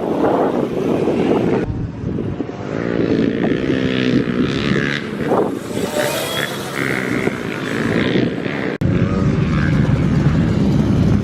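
A small kids' dirt bike running, its motor droning and changing pitch as the throttle varies. The sound changes abruptly about three-quarters of the way in.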